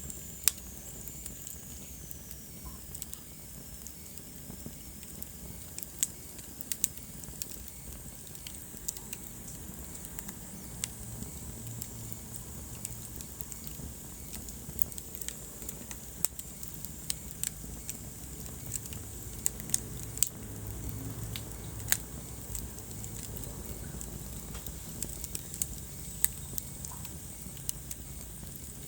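Wood fire burning in a fireplace: a steady low rumble of flame with irregular sharp crackles and pops scattered throughout.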